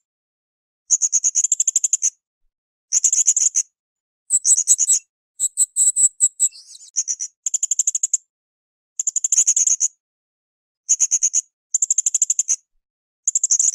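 Blue-crowned hanging parrot (srindit) calling in short bursts of rapid, shrill high-pitched trills, about ten bursts with brief pauses between them.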